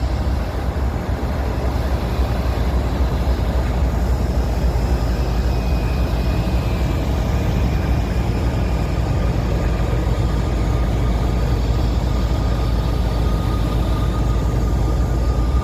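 Diesel freight locomotives idling at a standstill: a steady, deep engine rumble with a faint whine above it.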